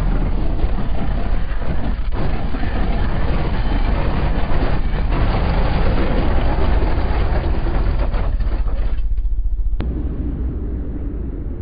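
Vehicle noise in motion: a loud, steady noise heavy in the low end, with no clear engine note. The higher part of the noise drops away about nine seconds in, with a single click just after.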